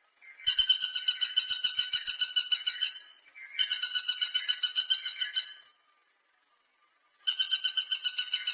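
A woodpecker calling: bouts of a fast rattling series of high, sharp repeated notes, about eight a second. There are three bouts, each about two seconds long, the last beginning near the end.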